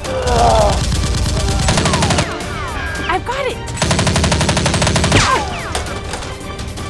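Two bursts of rapid automatic gunfire, the first about two seconds long and the second, starting about four seconds in, about a second and a half, with a few falling whistles among the shots. The gunfire is a sound effect laid over a staged blaster fight, with background music underneath.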